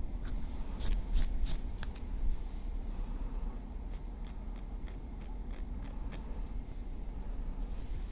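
Small wooden stick tapping lightly: a quick run of crisp clicks in the first two seconds or so, then sparser, softer taps, over a steady low hum.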